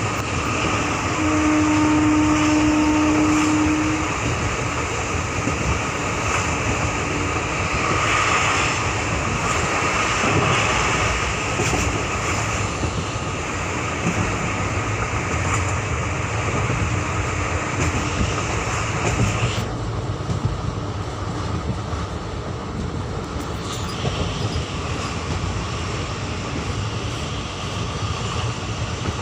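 Moving passenger train heard from on board: the steady rumble and clatter of the coach's wheels running on the rails. A steady tone sounds for a few seconds near the start, and about twenty seconds in the high hiss drops away suddenly while the rumble continues.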